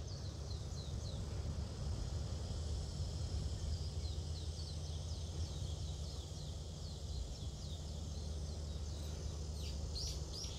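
Small birds calling in short, repeated falling chirps, a few a second, with a few louder chirps near the end, over a low steady rumble.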